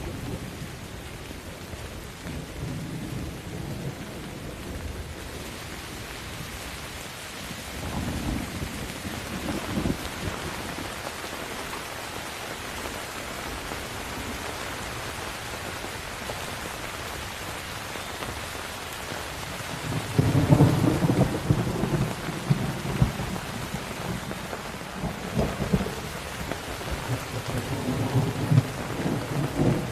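Steady rain with rolling thunder: a rumble about eight seconds in, and a louder, longer peal from about twenty seconds in that rumbles on to the end.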